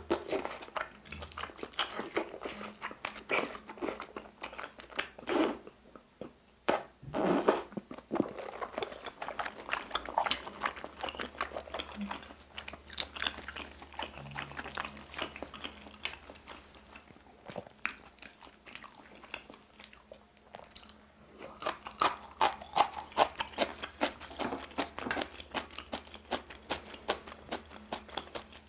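Close-miked chewing of thick, chewy bunmoja glass noodles: a steady run of wet mouth clicks and smacks, with a few louder bursts about five and seven seconds in.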